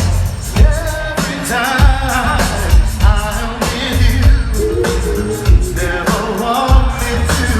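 Live R&B music from a concert PA: a voice singing a wavering melody over a heavy kick-drum beat that hits about every half second.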